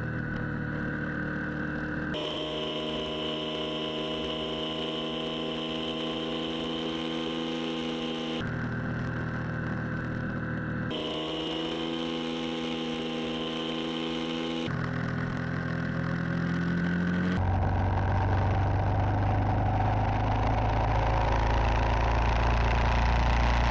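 Vehicle engines running steadily, a different hum with each clip, the sound changing abruptly several times. From about two thirds of the way in, a deeper and louder engine drone takes over.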